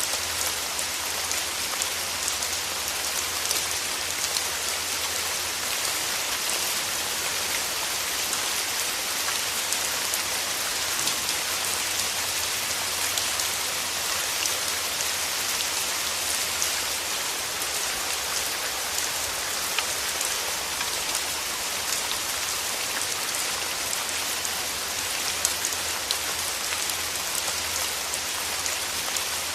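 Steady rain falling through forest trees, a dense even patter of drops on leaves with occasional louder single drips.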